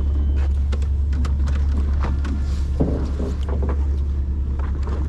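Fishing boat's engine running with a steady low drone, with scattered clicks and knocks on deck over it.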